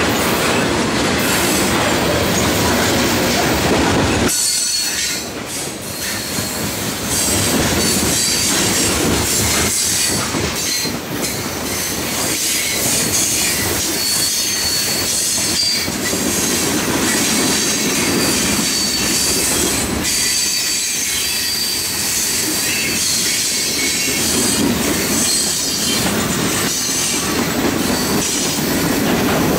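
Freight cars (tank cars, boxcars and covered hoppers) rolling past close by: steel wheels rumbling and clacking on the rails, with a steady high squeal of wheels on rail. The noise dips briefly about four seconds in.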